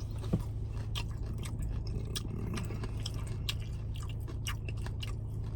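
Close-up chewing of loaded beef nachos: wet mouth clicks and smacks, several a second, over a steady low hum.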